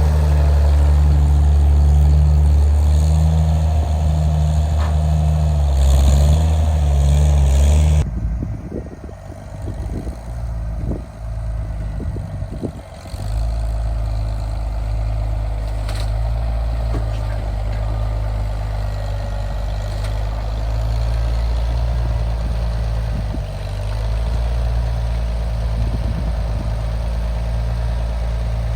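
An engine running steadily. About eight seconds in the sound changes abruptly to a few seconds of irregular knocks and clunks, then settles into a quieter, steady engine hum.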